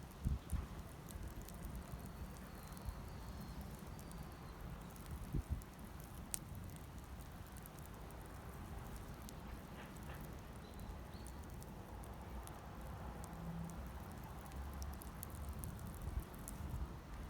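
Wood fire burning, with scattered faint crackles and pops.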